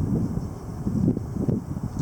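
Gusty wind blowing across the microphone, a low rush that swells and eases.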